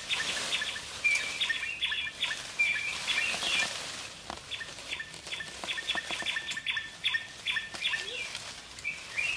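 Small birds chirping in quick repeated series, over the rustle of leafy branches being handled and tossed down, with occasional twig cracks.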